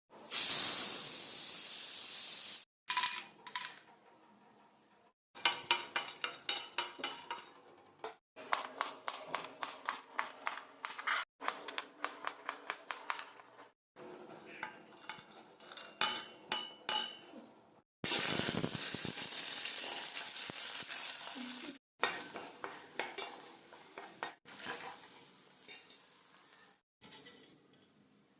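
Cooking in a pan, cut together in short pieces: food sizzling in hot oil, loudest at the start and again about two-thirds of the way through. In between, a metal utensil clinks and scrapes rapidly against the pan while stirring.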